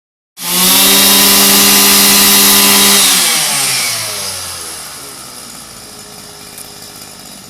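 Stihl petrol string trimmer engine running at full throttle with a steady high pitch, then throttle released about three seconds in, the engine winding down to a quieter idle.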